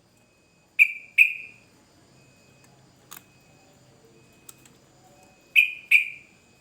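Yellow-vented bulbul (trucukan) calling: two pairs of loud, sharp notes, each pair quick and each note fading fast, about a second in and again near the end, over faint repeated high peeps.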